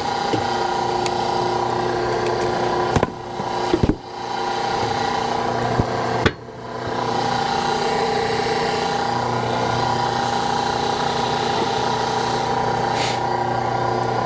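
Hydraulic log splitter running steadily, its even machine hum dipping briefly with a few sharp knocks about three, four and six seconds in as it works through firewood.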